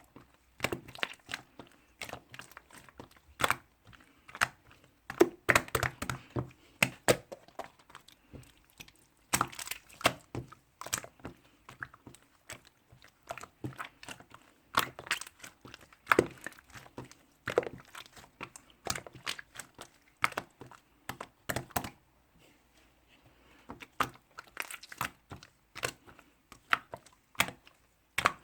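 Slime being squeezed and pressed by hand, making irregular crackling clicks and pops in quick clusters, with a short lull about three quarters of the way through.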